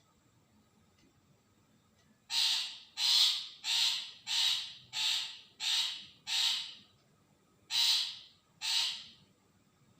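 Long-tailed shrike giving a series of harsh, rasping calls: seven in a steady run, about three every two seconds, then a short pause and two more.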